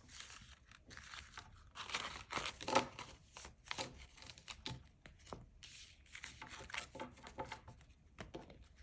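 Tarot cards being gathered and shuffled by hand: soft papery rustling and sliding with scattered light clicks.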